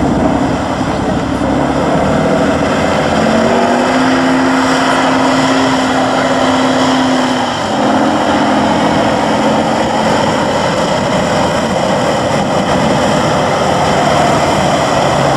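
Tatra 813 8x8 truck's air-cooled V12 diesel engine running hard, loud and steady, its note holding a steady tone for a few seconds and dipping briefly about halfway.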